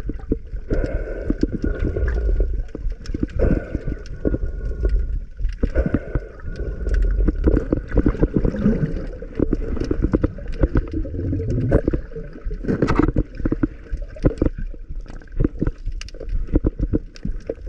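Water gurgling and sloshing with a low rumble and many small irregular crackling clicks, as heard by a camera in or at the surface of the sea during free diving.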